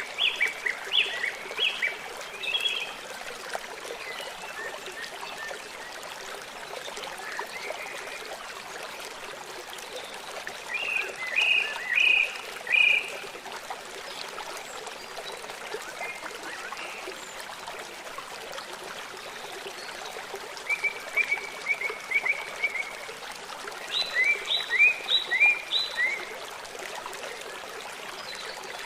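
Birds singing in short phrases of quick, high, falling notes, heard a few times (near the start, around the middle and toward the end), over a steady rush of flowing water.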